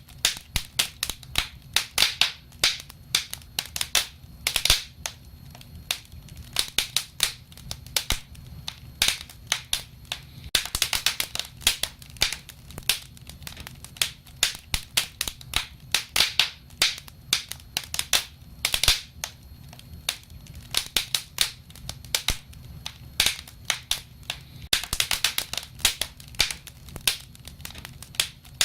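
Wood fire crackling: irregular sharp pops and snaps, several a second, over a low, steady rumble.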